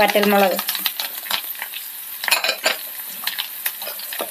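Shallots, garlic, curry leaves and chillies frying in hot coconut oil in a nonstick pan, sizzling with dense crackles. The crackling flares up about two seconds in.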